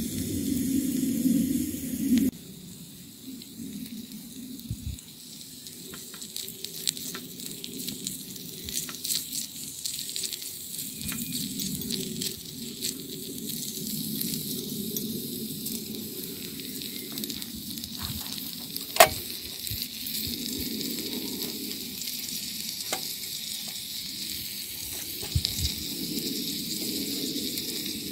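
Meat and onion sizzling in a miniature cast iron pot over a small wood fire, a steady hiss with scattered clicks and taps as it is stirred with a tiny spatula; one sharp click stands out a little past two-thirds through.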